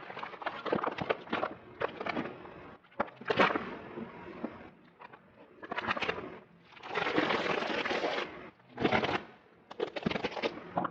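Brittle things cracking and crunching as they are crushed by a car, in a string of separate bursts of crackles and snaps, with one longer stretch of dense crackling about two-thirds of the way through.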